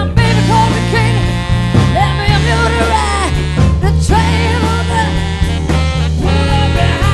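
Live blues-rock band playing: a guitar lead with bent notes over a steady bass line and drums.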